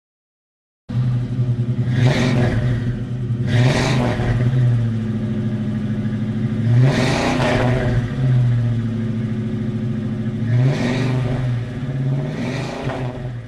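Car driving on a road: a steady engine and road drone, with five whooshes of vehicles going past, the loudest about seven seconds in. It cuts in abruptly about a second in.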